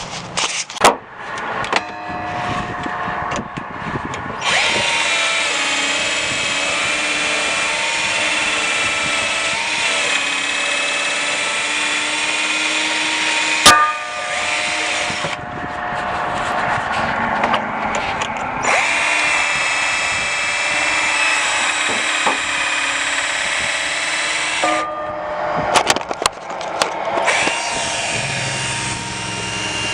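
A power tool with a drill-like motor runs steadily in two long spells, the first about eleven seconds and the second about six, with a pause between. Sharp clicks and knocks come before, between and after the runs.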